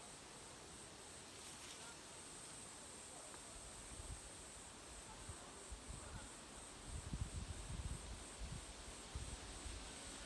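Faint, steady high-pitched insect buzzing, with irregular low bumps and rumbles starting about midway.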